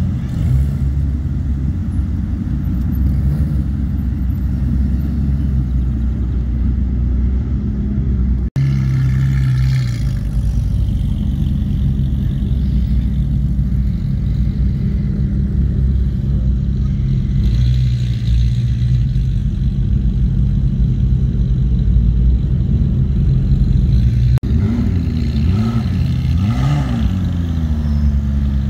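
Sports-car engines rumbling as the cars drive slowly past: a Ford Mustang GT's V8, then a Ferrari and a Lamborghini, then a McLaren, with the sound cutting from one clip to the next. Near the end, an engine is revved up and down a few times in quick blips.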